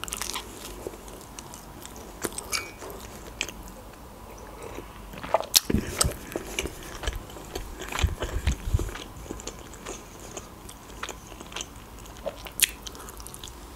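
Close-up biting and chewing of khachapuri, Georgian cheese bread, with scattered crisp clicks and crunches of the crust. Louder clicks and a few low thumps bunch up around the middle.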